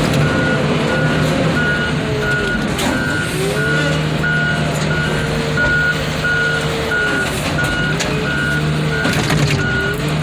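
A heavy machine's back-up alarm beeps steadily, a little under two beeps a second, while its engine revs up and down under load.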